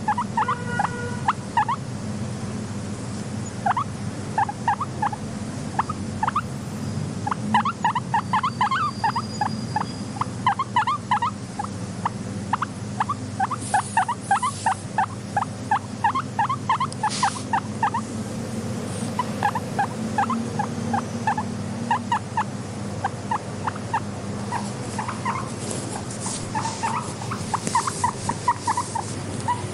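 Guinea pig squeaking in quick runs of short, repeated calls, over a steady low hum.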